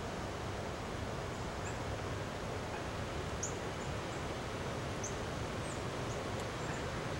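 Steady outdoor background noise with brief, high-pitched chirps of small birds scattered through it.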